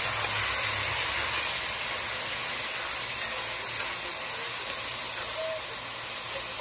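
Onion, chive and celery frying in hot sesame and vegetable oil in a pot, sizzling with a steady hiss.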